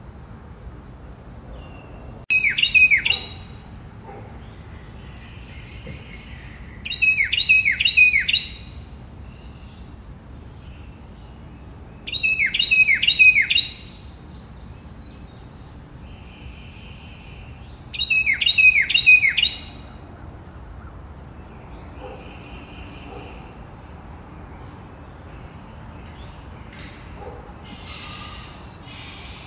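A songbird sings the same short phrase four times, about every five seconds: three or four quick notes, each sliding steeply down in pitch. A steady high insect drone runs beneath it.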